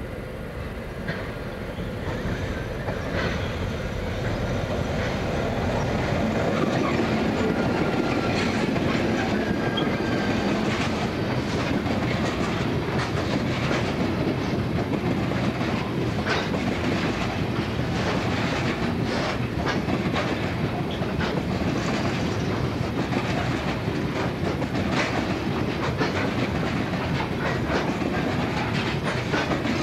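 NSW 81 class diesel-electric locomotive 8126 passes close by at the head of a coal train, its sound building over the first few seconds. Then the long string of coal hopper wagons rolls past with a steady rumble and continual clickety-clack of wheels over the rails.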